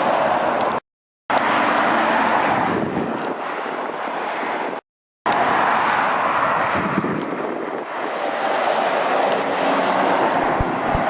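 Steady traffic noise from trucks and cars passing at speed on a dual carriageway, mostly tyre and engine noise, with some wind on the microphone. The sound drops to dead silence twice for about half a second, about a second in and about five seconds in, where the recording is cut.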